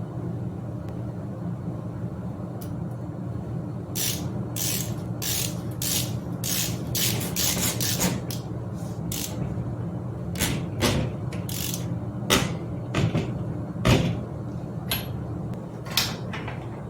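Clicks and knocks of metal bicycle parts and hand tools being worked during a bike build, a run of sharp ticks with a few louder knocks, over a steady low hum.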